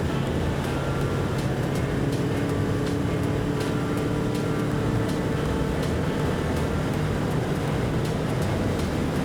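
Kawasaki Vulcan 650's parallel-twin engine running steadily at cruising speed, its note rising slightly through the middle, with road and wind noise.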